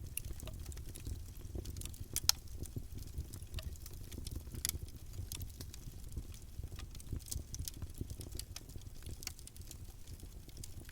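Campfire burning: wood crackling and popping irregularly over a low, steady rush of flame, with one loud, sharp pop about two seconds in.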